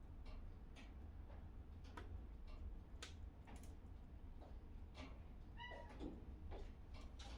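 Wood fire in a fireplace crackling with irregular sharp pops, and a cat giving one short meow a little past halfway.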